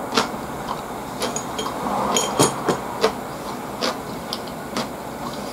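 Close-up eating sounds: a man chewing food, with irregular sharp mouth clicks and crunches.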